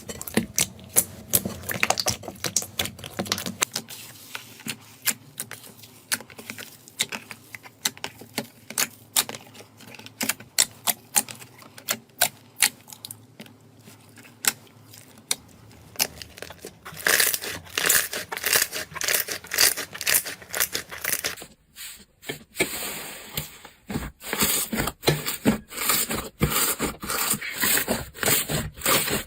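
Slime worked by hand, making an irregular run of sharp clicks and crackles. About 22 seconds in, the sound dips briefly and then comes back as a denser, brighter run of clicks.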